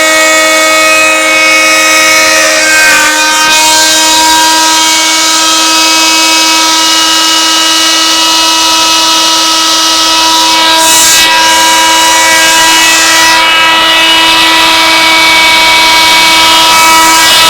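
Homemade plywood CNC router running: the stepper motors whine in steady tones that glide to new pitches several times as the axes change speed, over a steady hum.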